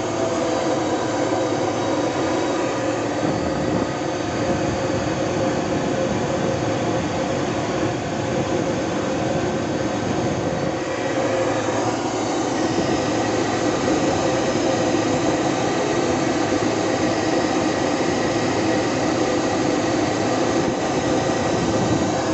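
Detroit Diesel 12V-71 two-stroke V12 diesel engine running steadily, with a thin high whine over the engine note; the note shifts slightly about halfway through.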